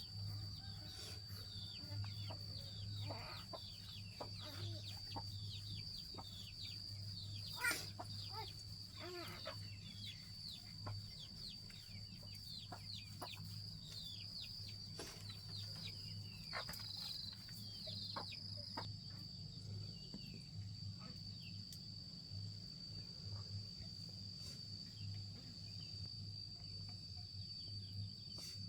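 Chickens calling: many short falling peeps and clucks, thinning out after about 19 seconds, over a steady high insect drone and a low hum.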